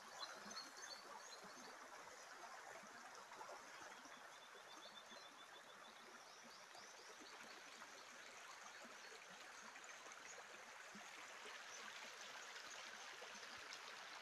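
Faint steady sound of running water, like a stream, with birds chirping high above it, including a quick run of repeated notes in the first half.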